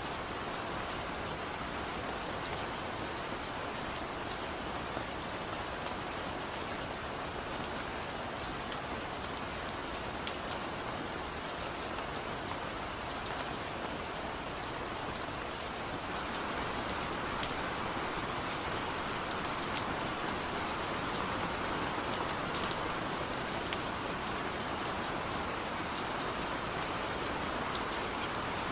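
Steady rain with individual drops ticking, growing a little heavier a bit past halfway.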